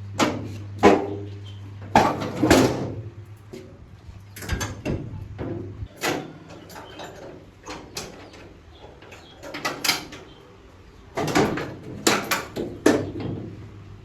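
Irregular knocks and clanks, a dozen or so, some ringing briefly, as parts are handled and fitted in a workshop; a low hum runs under the first few seconds.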